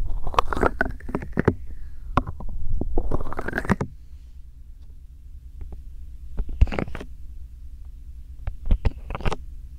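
Bare hands rubbing and pressing against a binaural microphone, with deep handling rumble. The rubbing is dense for about the first four seconds, then eases to scattered light taps, with two short bursts of rubbing around seven and nine seconds in.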